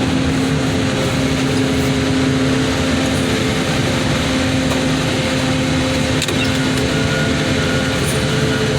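A heavy machine's engine running steadily under a constant drone and hum, with no change in speed.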